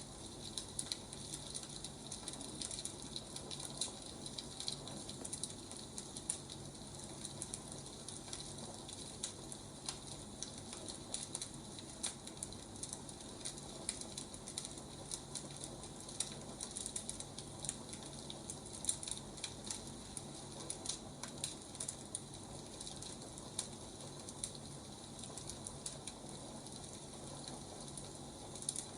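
Wood fire crackling: a steady hiss with frequent irregular pops and snaps.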